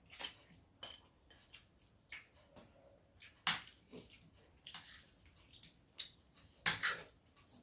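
Close-up eating sounds of a meal eaten by hand: irregular wet smacks and clicks of chewing and of fingers working rice and fish curry on a plate, with two louder smacks, about three and a half and nearly seven seconds in.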